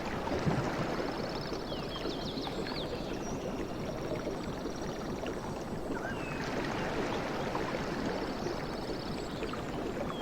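Sea waves washing continuously, with a surge about half a second in. Thin, high chirps and rapid trills sound over the wash.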